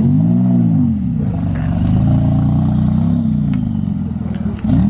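Porsche 911's flat-six engine revving in short blips as the car rolls slowly past: one blip at the start and a gentler one around the middle, each rising and falling in pitch. A few light clicks near the end.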